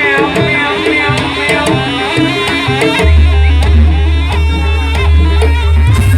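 Traditional Banyuwangi jaranan buto ensemble music: drum strokes under a repeating pitched percussion melody, with a wailing, bending melodic line above. About halfway through a deep steady bass tone comes in and holds.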